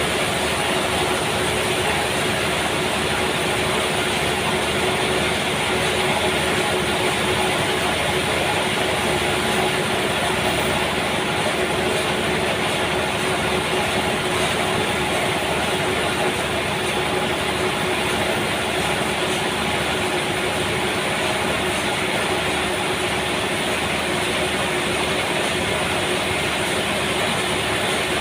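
Sawmill running steadily while sawing a trembesi (rain tree) log, a dense, even machine noise with a faint held hum under it.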